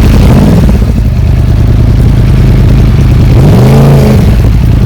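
Motorcycle engine idling loudly, with a falling pitch just after the start and one throttle blip about three and a half seconds in, its pitch rising and dropping back to idle.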